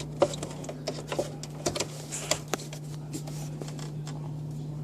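A few sharp clicks and knocks from parts being handled during an ice maker replacement, dying away about two and a half seconds in, over a steady low hum.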